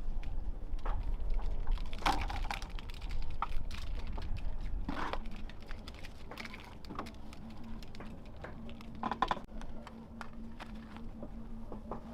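Irregular light clicks and taps, with a few louder knocks, joined about halfway through by a steady low hum.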